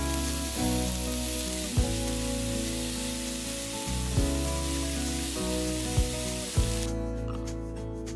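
Diced onions sizzling in hot oil in a stainless frying pan as they are stirred with a wooden spatula, under background music with a few soft beats. The sizzle cuts off suddenly about seven seconds in, leaving the music.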